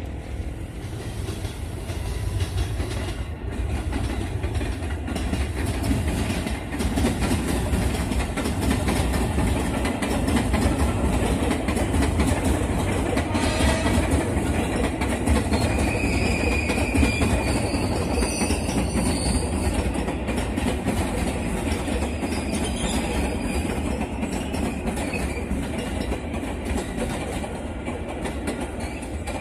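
Electric commuter trains (KRL Commuter Line multiple units) passing on the tracks, wheels clattering over the rails. The sound swells to its loudest around the middle, with a brief high squeal a little past halfway.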